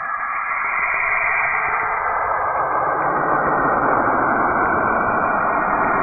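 NASA spacecraft recording of Saturn's radio emissions converted into audible sound: a dense noise that spreads lower and grows louder over the first few seconds, then holds steady.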